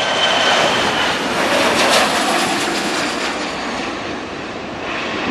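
Airliner passing low on its landing approach, the engine noise a loud, rushing roar that slowly fades as it moves away; a high whine dies out in the first half-second.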